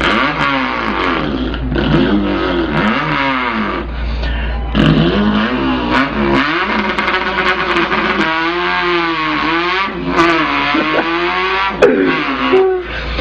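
A man's voice imitating an import sports car accelerating: repeated rising revs that drop back as if through gear shifts, then a long held, wavering engine note.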